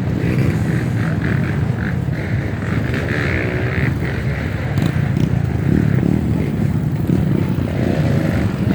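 Off-road trail motorcycle engine running, with the revs rising and falling a couple of times.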